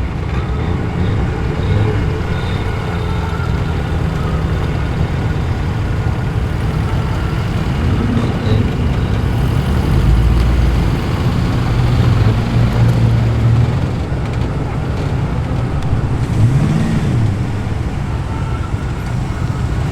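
Car engines running at low speed as cars roll past one after another, a steady low drone, with one engine briefly revving up and back down near the end.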